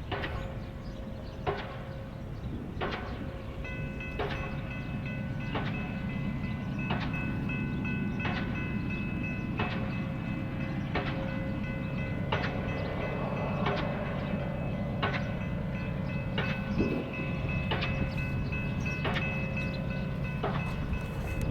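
Diesel pile hammer driving a steel H pile, striking in a steady rhythm of one blow about every 1.4 seconds over a continuous low engine rumble. About four seconds in, a steady high-pitched whine of several tones joins and holds on.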